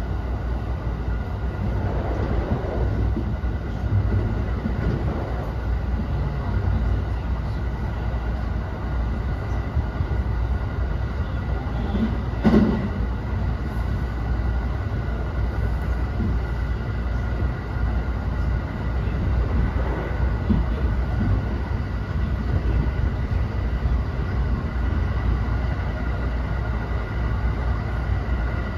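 Running sound inside the unpowered trailer car of a JR West 321 series electric commuter train: a steady rumble of wheels on rail with faint steady tones above it, and one sharp clunk about twelve seconds in.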